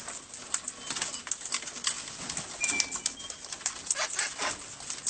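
Wild parrots chattering at close range: many short, quick calls overlapping one another, with a few brief whistled notes.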